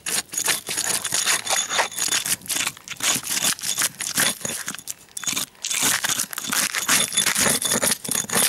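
Old bitumen roofing felt being scraped and torn off a roof, in irregular scrapes and rips with a brief lull about five seconds in.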